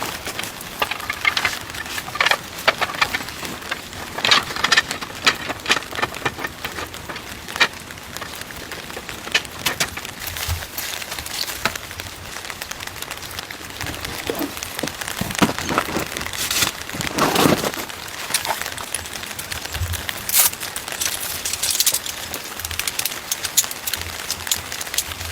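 Heavy rain falling on a tent: a steady hiss of rain with many irregular, sharper drop impacts on the fabric.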